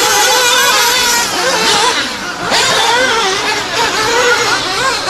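Small RC stadium truck engines running at high revs, their pitch rising and falling over and over as the trucks accelerate and back off. More than one engine can be heard at once, and the sound dips briefly about two seconds in.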